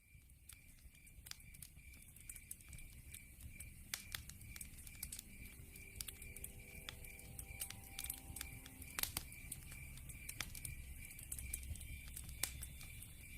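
Wood fire crackling and popping with irregular sharp snaps over a low rumble of flames, fading up at the start. Behind it a steady high-pitched chirping pulses about three times a second, the night sound of crickets or similar insects.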